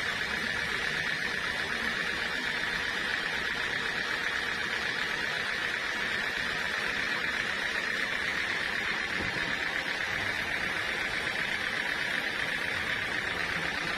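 Sawmill saw cutting through a teak log: a steady, even noise that does not break or change pitch.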